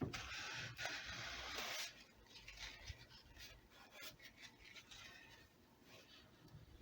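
Faint rubbing as excess glue is wiped off a redwood guitar top around the rosette channel: about two seconds of steady rubbing, then lighter, scattered scratchy strokes.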